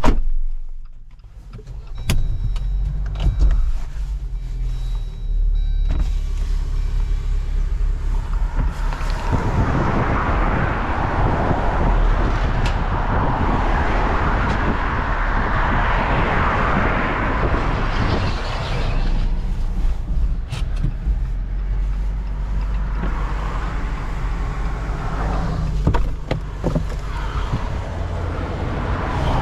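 A motor vehicle: a knock at the start, then the engine running with a steady low hum from about two seconds in. From about nine seconds on a broad rushing road noise builds as it drives.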